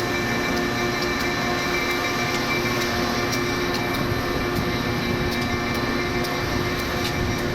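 Steady running noise inside a moving passenger train carriage of the Panama Canal Railway: an even rumble with a constant hum and faint light ticks.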